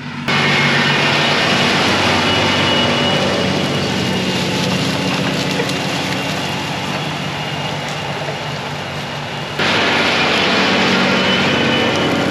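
Diesel farm tractor engine running steadily, pulling tillage equipment, with a loud rushing noise over the low engine hum. The level jumps up abruptly just after the start and again about ten seconds in.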